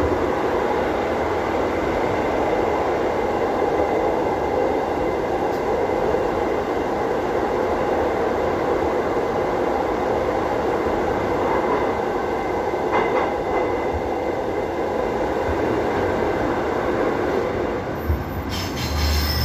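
Running noise inside a Transperth electric train carriage moving at speed: a steady rumble of wheels on rail, with a single click about thirteen seconds in. Near the end a high-pitched squeal and a deeper hum join in.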